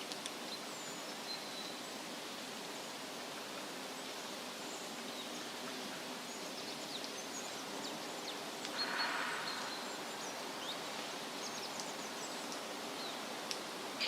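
Outdoor nature ambience: a steady, even hiss with faint scattered bird chirps over it, and a brief louder rustle about nine seconds in.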